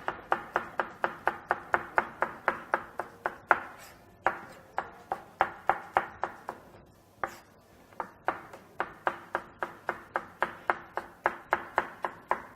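Chef's knife slicing red peppers into julienne strips against a cutting board: quick, even strokes about four a second, broken by two short pauses.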